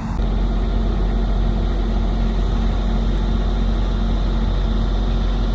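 A car engine running steadily with a deep, even note and no revving.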